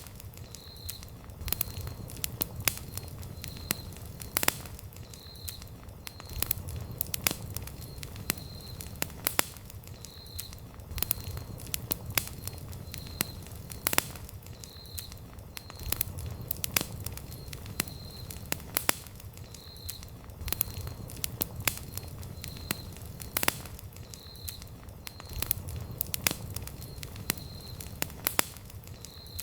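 Wood campfire burning and crackling, with many sharp irregular pops and snaps over a low rumble of flame. A faint high-pitched chirp repeats about once a second throughout.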